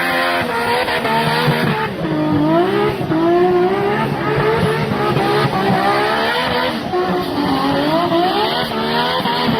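Big-turbo Nissan Skyline R34's RB26 straight-six accelerating hard, its pitch climbing and dropping back several times as it shifts gears, with some tyre squeal.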